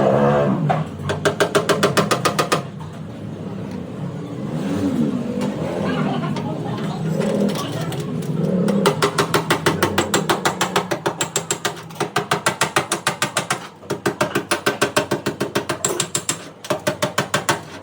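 Rapid ratchet clicking, about eight to ten clicks a second, from a ratcheting tool used in paintless dent repair. The clicking runs briefly near the start, gives way for several seconds to a low wavering sound, then resumes steadily through the second half.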